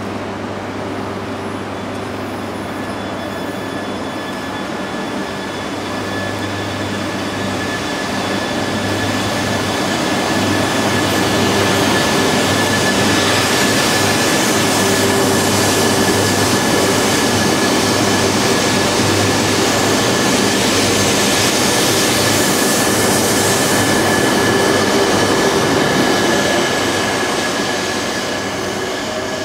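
GENBI SHINKANSEN, an E3-series shinkansen set, pulling out of the station and running past close by. Its running noise builds over about ten seconds, holds loud with a steady whine, then fades near the end as the train moves away.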